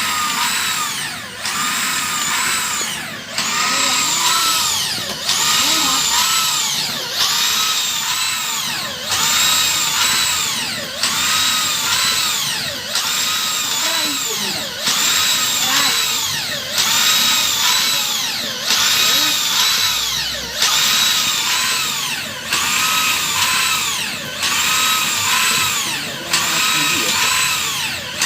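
A 13 mm electric drill drives a homemade crank unit that works a PCP air-rifle hand pump. The drill's whine rises and falls in pitch about once a second, as each pump stroke loads and unloads it.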